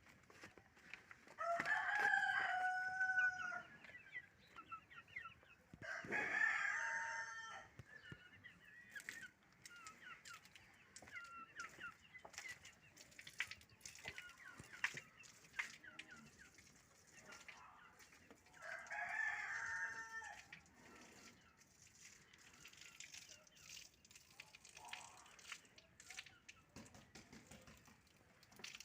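Rooster crowing three times, each crow about two seconds long, with softer short clucks and chirps in between.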